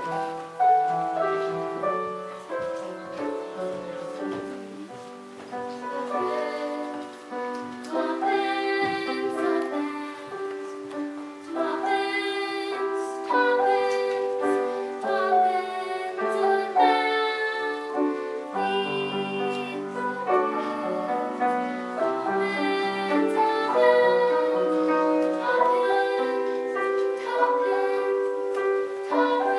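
A singer performing a slow song over piano accompaniment, the notes held and moving step by step.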